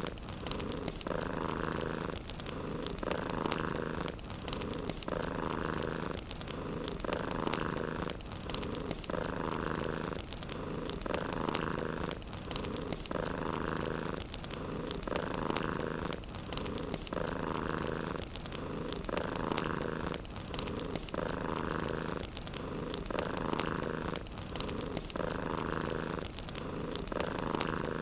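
Domestic cat purring steadily in a rhythm, rising and falling about every one and a half seconds with each breath in and out, over light crackling from a wood fire.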